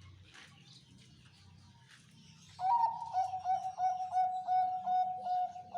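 Zebra dove (perkutut) cooing in the slow style: starting about two and a half seconds in, a string of short coo notes on one pitch, about three to four a second.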